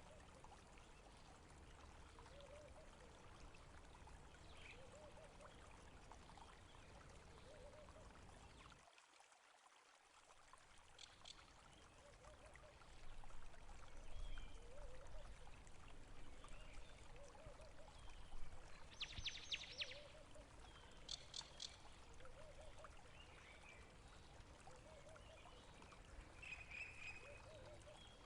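Running water trickling and pouring steadily, with a few short, high, rapid bird calls in the second half. The low part of the sound briefly drops out about nine seconds in, and it comes back somewhat louder.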